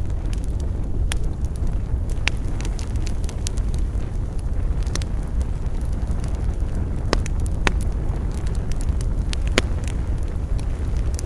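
Wood fire crackling, with scattered sharp pops and snaps at irregular intervals over a steady low rumble.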